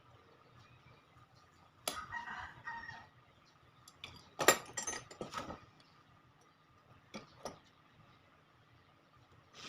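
A rooster crowing, twice, with two short clicks a little after the middle.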